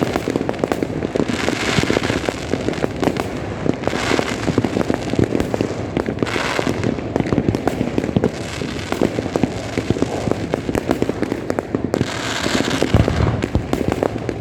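Fireworks and firecrackers going off all over the city at once: a dense, continuous crackle of pops and bangs, with a heavier low boom about thirteen seconds in.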